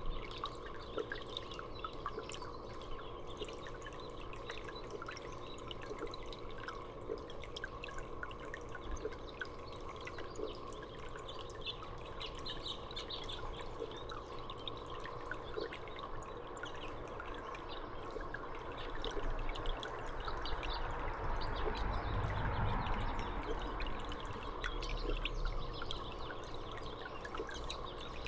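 Birdbath water trickling and dripping steadily, with faint, scattered bird chirps. A low rumble swells for several seconds in the later part.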